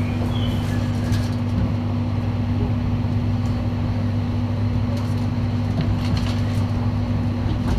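Inside the carriage of a limited express train: a steady low hum from the train's equipment cuts in suddenly and holds level.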